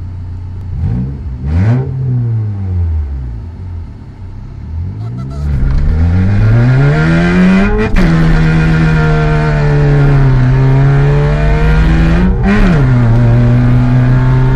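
Opel Corsa B 1.4 16V four-cylinder engine idling, blipped once about a second in, then accelerating hard from about four seconds, its note climbing steadily and louder until it drops sharply at about eight seconds. It then runs at a steady pitch, with another brief rise and fall near the end.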